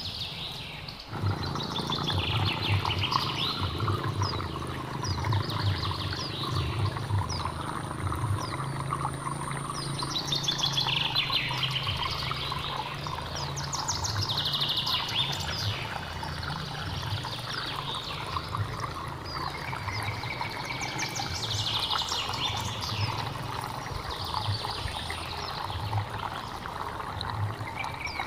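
Flowing hill stream running steadily with a low burble, while a bird sings short song phrases every few seconds above it.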